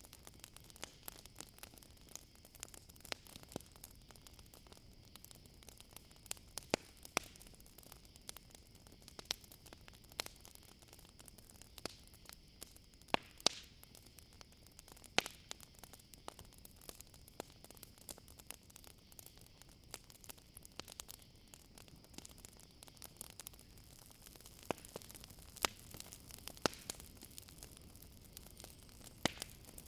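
Campfire crackling, with irregular sharp pops and snaps, over a steady high-pitched trill of crickets.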